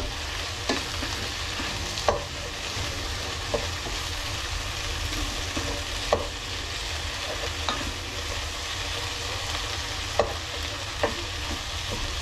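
Vegetables sizzling as they fry in a pan for curry, stirred with a utensil that knocks against the pan every second or two.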